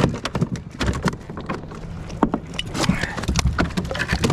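Rapid, irregular knocks and clicks aboard a small fishing boat as a hooked tautog is landed.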